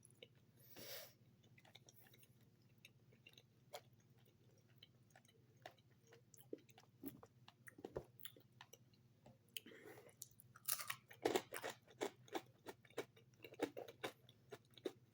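A person chewing a ketchup-dipped French fry close to the microphone: faint, soft chewing clicks and crunches that grow denser and louder about halfway through.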